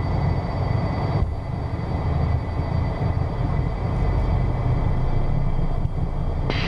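Beechcraft Premier I's twin Williams FJ44 turbofans at takeoff power during the takeoff roll: a steady rumble with a thin high whine, heard in the cockpit. A short burst of noise comes near the end.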